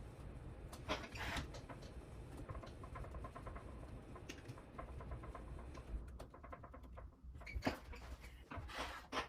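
Hands handling small parts and tools: scattered light clicks, taps and rustles, with the loudest bursts about a second in and again near the end.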